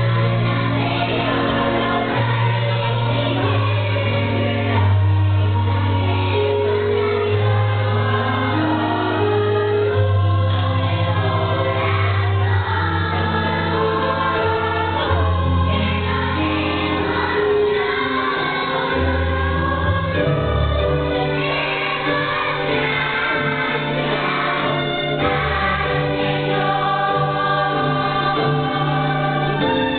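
A choir singing, several voice parts holding notes and changing pitch together.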